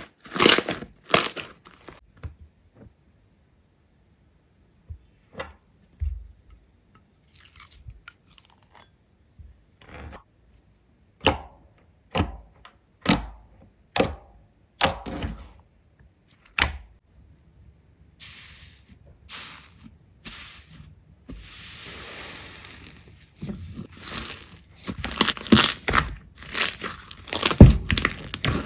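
Slime being squeezed and pressed by hand, giving crisp crackles and pops one after another. There is a quiet pause a couple of seconds in, a steady hiss for a couple of seconds past the middle, and dense crackling near the end.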